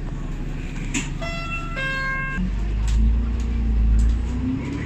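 Inside a KMB double-decker bus: a two-note electronic chime falling in pitch, then the engine pulls harder from about two and a half seconds in, its low drone swelling and a whine rising in pitch as the bus accelerates.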